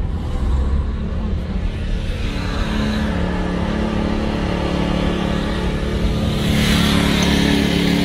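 Car engine and road noise, a steady rumble with a low hum, swelling into a louder rush about six and a half seconds in.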